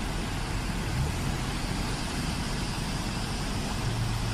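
Floodwater rushing down a flooded wadi: a steady, even rushing noise with a low rumble underneath.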